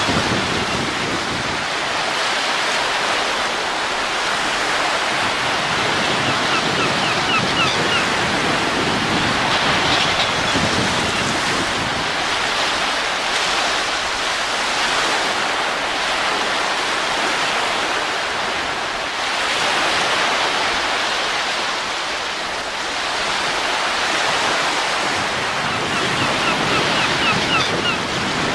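Steady rushing wind, a continuous hiss that slowly swells and eases in long gusts.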